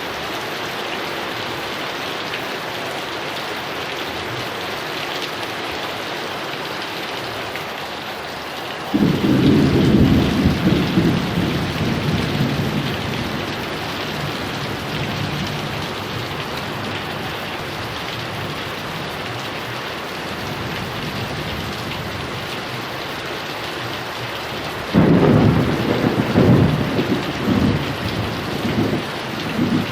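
Steady heavy rain, with two rolls of thunder: one breaking suddenly about a third of the way in and rumbling for several seconds, and a second cracking in near the end and rumbling on.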